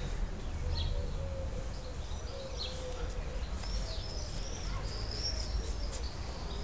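Small birds chirping now and then, with a run of quick chirps in the second half, over a steady low rumble and a faint wavering hum.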